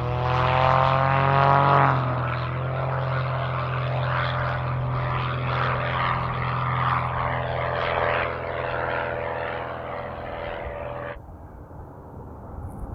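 Howard 500's twin Pratt & Whitney R-2800 radial piston engines running. The pitch rises over the first two seconds, then holds steady, and the sound cuts off abruptly about eleven seconds in.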